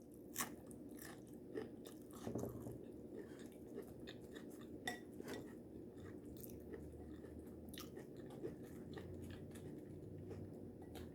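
A person chewing a mouthful of taco salad, with faint, scattered crunches and mouth clicks.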